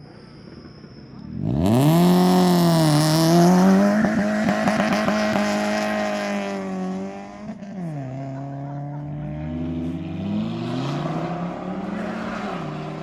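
A car doing a burnout: the engine revs up sharply about a second and a half in and holds high for several seconds over the hiss of spinning, squealing tyres, then drops and climbs again.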